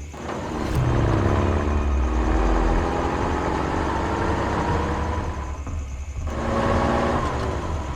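Motor-vehicle engine running and revving, its pitch drifting slightly upward; it drops away briefly about six seconds in, then picks up again.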